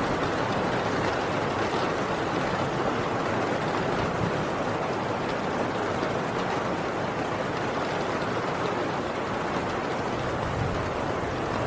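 Heavy rain drumming steadily on a tin roof, a dense even downpour with no break.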